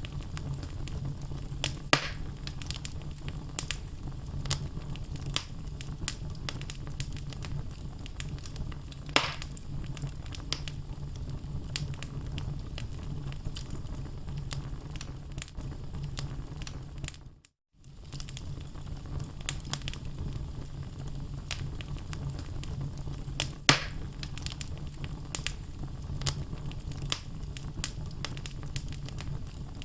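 Wood fire crackling in a fireplace: a steady low rumble of flames with scattered sharp snaps from the burning logs and a few louder pops. The sound cuts out briefly about halfway through.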